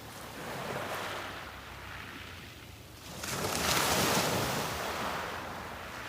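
Sea waves breaking on the beach: a smaller wash about a second in, then a bigger wave breaking about three seconds in, the loudest moment, and fading away.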